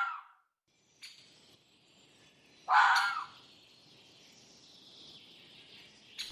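A fox barking: two short, harsh calls about three seconds apart, over faint outdoor background noise.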